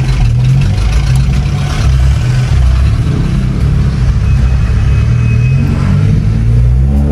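Honda City GM's engine heard from inside the cabin, pulling the car along on a test drive with a freshly replaced clutch; its pitch shifts up and down and rises again near the end.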